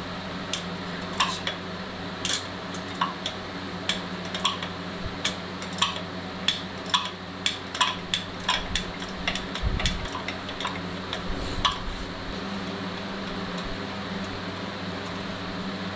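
Metal hand tools clinking and tapping: a run of irregular light metallic clicks, busiest in the middle, over a steady low hum.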